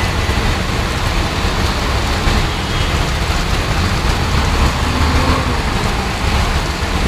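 Hailstorm: a dense, steady rush of hail and rain, with a heavy low rumble underneath.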